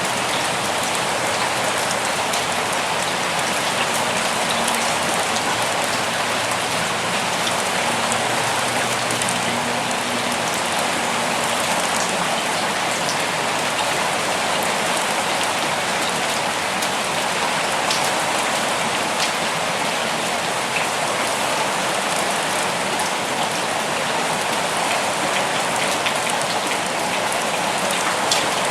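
Steady rain falling in a forest, a dense even hiss of rain with individual drops pattering and clicking on leaves and surfaces.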